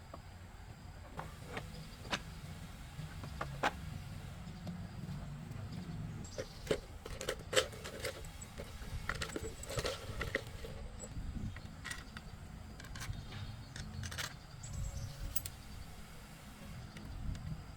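Scattered metallic clicks and clinks of hand tools and small metal parts being handled, thickest in the middle, over a low steady rumble.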